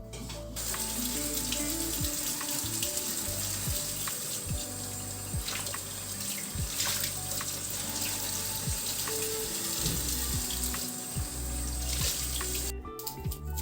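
Water running from a tap into a sink in a steady stream, turned on about half a second in and shut off near the end.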